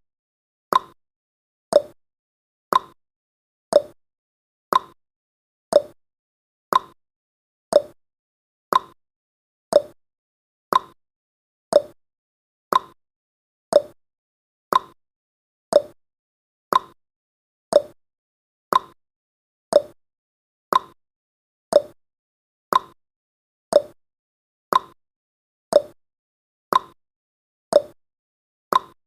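Countdown timer's clock-tick sound effect: a short, sharp tick once a second, alternating between a higher and a lower tick like a tick-tock.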